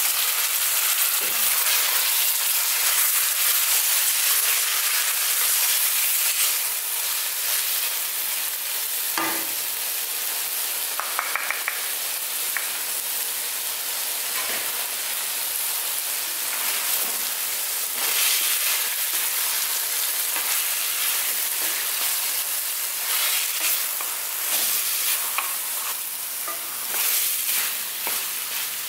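Chicken pieces coated in green masala sizzling in a hot pan while a spatula stirs and scrapes them, giving scattered clicks against the pan. The sizzle is a steady hiss, a little louder for the first few seconds.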